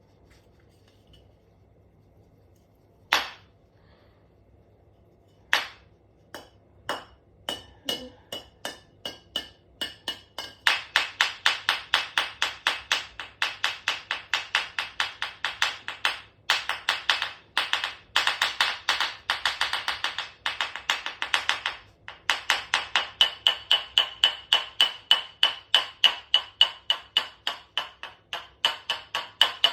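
Repeated sharp knocks with a short ringing tone, as the tumble dryer is struck. Two single knocks come first, then the strikes speed up into a steady run of about four a second.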